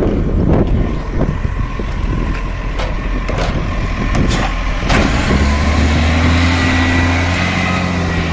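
Garbage truck at work: a run of knocks and clanks, then about five seconds in the engine speeds up and holds a steady, loud run with a hiss over it.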